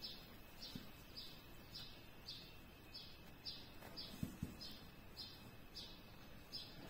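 Faint bird chirps repeating evenly, about two a second, with a couple of soft knocks a little past the middle.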